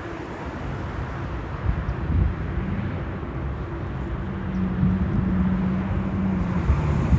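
Jet airliner rumbling as it approaches, slowly growing louder, with wind buffeting the microphone.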